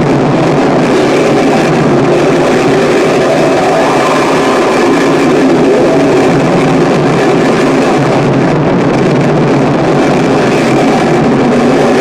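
Harsh noise music: a loud, unbroken wall of distorted noise, heaviest in the low-middle range, with no beat or pause.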